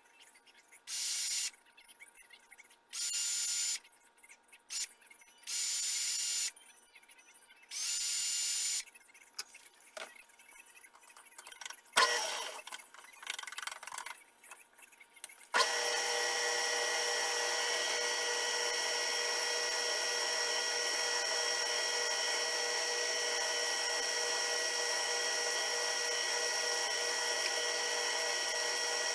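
Several short hisses of about a second each, a few knocks, then a power tool or small machine tool starts about halfway through and runs steadily with a constant whine.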